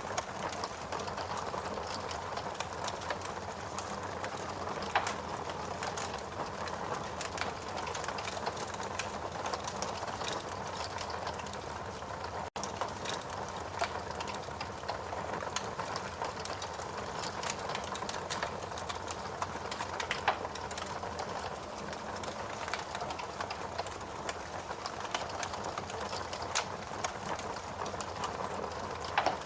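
Wood fire burning in a fireplace: a steady hiss with dense irregular crackling and an occasional louder pop, the clearest about 5 s and 20 s in.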